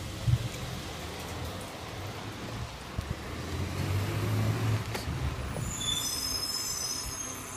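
Recycling garbage truck engine running low and steady, with a few sharp knocks, then a high-pitched squeal of several tones from about six seconds in, like squealing brakes or a squeaking lift mechanism.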